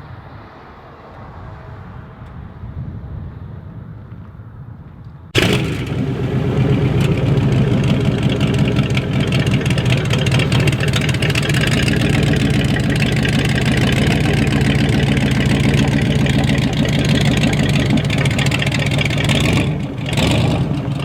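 Rat rod's Cadillac engine: a low rumble at first, then about five seconds in a sudden jump to a loud, steady engine sound that holds to the end.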